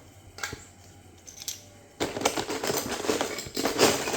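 Loose plastic Lego pieces clicking and clattering: a few separate clicks, then about halfway through a sudden, louder, dense rattle of many pieces knocking together.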